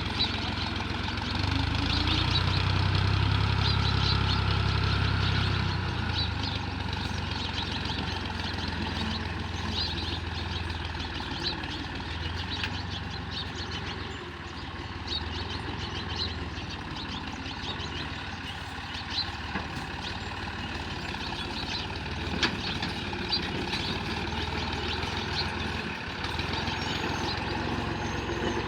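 Tractor engine running steadily, louder for a few seconds near the start and then even, with birds chirping throughout.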